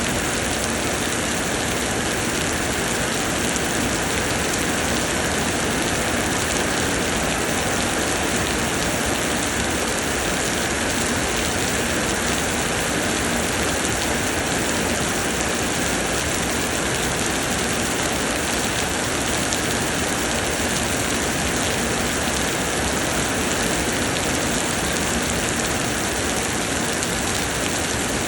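Heavy summer rain pouring down, a steady even hiss that does not let up.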